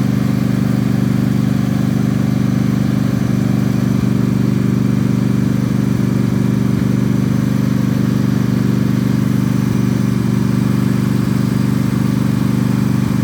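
Yard Machines riding mower engine cranking on its electric starter for a long, steady stretch without firing. The owner suspects it is out of gas, or that the battery is going bad.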